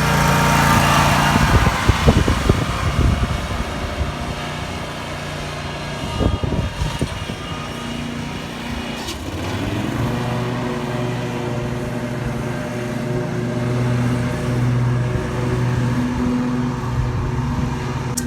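An engine running steadily, its note shifting to a stronger low hum about ten seconds in.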